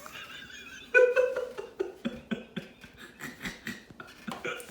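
Freshly popped popcorn being handled and chewed: irregular crisp crunches and clicks, beginning with a brief louder sound about a second in.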